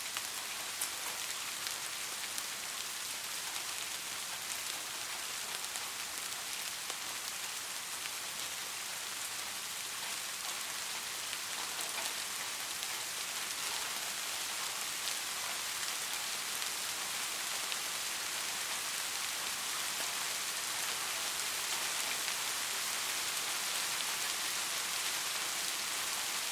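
Steady, gentle rain falling, an even hiss with scattered drop ticks, growing slightly louder toward the end.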